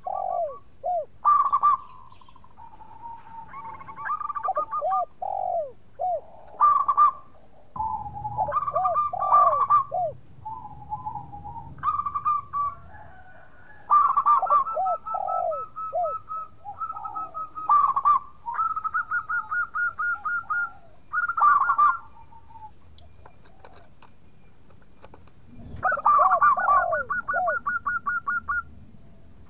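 Zebra dove (perkutut) cooing in repeated phrases of quick trilled coos mixed with short falling notes, one phrase after another, with a pause of a few seconds before a last phrase near the end.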